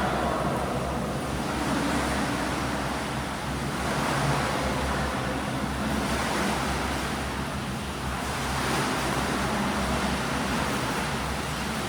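Swimming pool noise: rushing, splashing water over a steady low hum, swelling and easing every two seconds or so.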